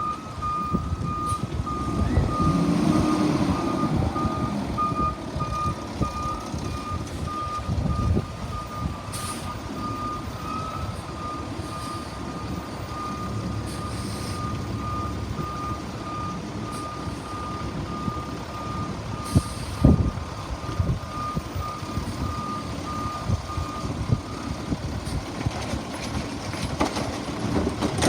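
Garbage truck's backup alarm beeping steadily over its running engine, stopping about 24 seconds in. A few short hisses come in between.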